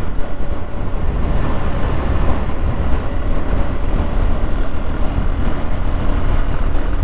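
Hero Xpulse 200 single-cylinder motorcycle engine running steadily while riding, under heavy low wind rumble on the microphone.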